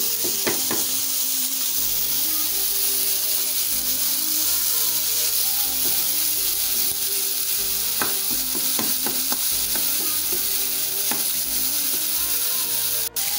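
Minced meat sizzling as it is fried dry in a non-stick pan, its water cooking off, while a wooden spatula stirs and scrapes through it. The sizzle is a steady hiss, with a cluster of sharper scrapes about eight seconds in and another near eleven seconds.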